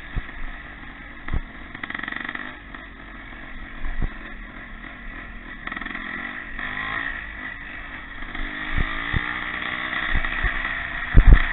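Pre-65 vintage motocross motorcycles racing on the circuit, engines revving up and down as they pass. Scattered low thumps, loudest in a cluster near the end.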